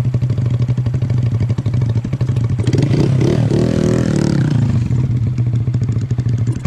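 Honda Grom's 125 cc single-cylinder four-stroke engine running, its note rising and wavering for a couple of seconds around the middle.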